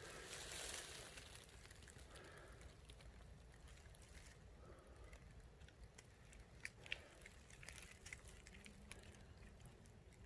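Near silence: faint outdoor room tone, with a brief soft rustle near the start and a few faint clicks about two-thirds of the way through.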